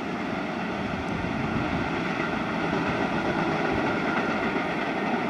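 Freight train rolling past with a steady rumble and rush of wheels on rails.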